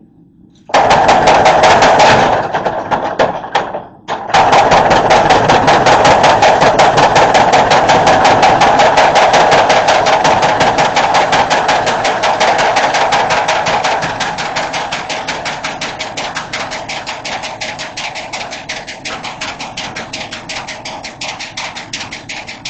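25-pound Little Giant mechanical power hammer striking rapid, steady blows on a hot forge-welded wire billet as it draws it out into a rectangular bar. The hammering starts about a second in, stops briefly a few seconds later, then resumes and gradually gets softer toward the end.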